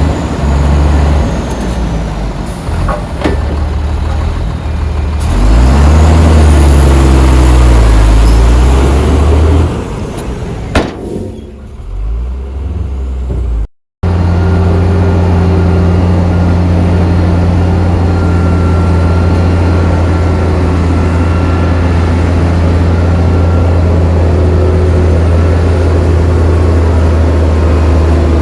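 Heavy diesel engines of earthmoving machinery at work. One engine revs up and back down under load. After a brief dropout about halfway through, a steady low diesel drone continues.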